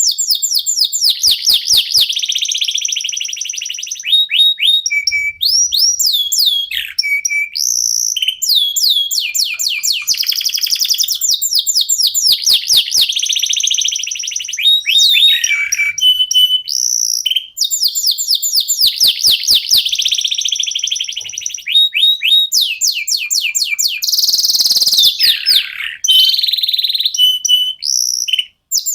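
Domestic canaries singing: fast trills of repeated rising notes alternating with whistled phrases, with short breaks between phrases.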